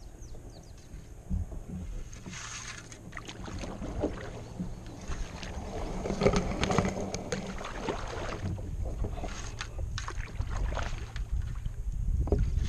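Kayak paddle strokes dipping and splashing in the water, with scattered clicks and knocks against the boat.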